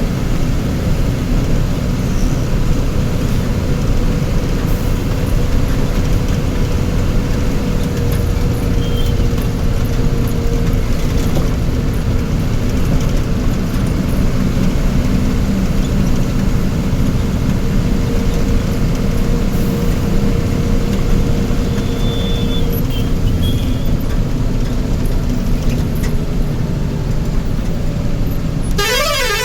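Steady vehicle engine and road traffic noise, with a short warbling tone just before the end.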